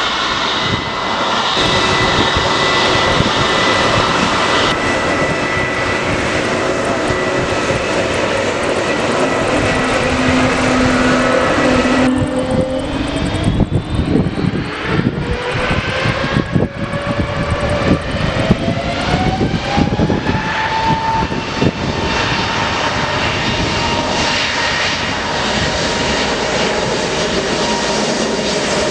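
Jet aircraft engines running, with a whine that rises steadily in pitch over several seconds around the middle as the engines spool up.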